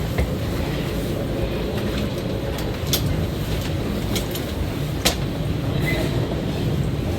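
Running noise of an E2 series Shinkansen heard from a car vestibule: a steady low rumble of wheels on rail, with a few sharp clicks about three and five seconds in, as the train nears its terminal stop.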